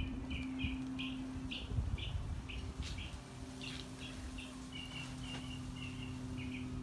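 A small songbird chirping, a quick series of short high notes about three a second that stop near the end, over a steady low hum.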